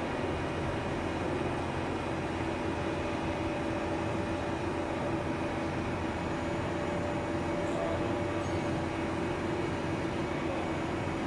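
Kuraki KBT 13 DX CNC boring machine running steadily: a constant mechanical hum with a few steady tones held throughout.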